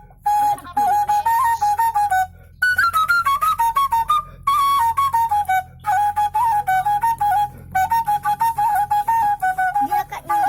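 Suling, a bamboo flute, playing an ornamented melody in short phrases, with quick turns and trills and brief breaks between phrases. One phrase about three seconds in climbs higher before the tune settles back down.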